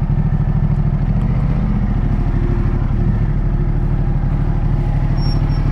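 Ducati Multistrada 1200's L-twin engine idling steadily at low revs.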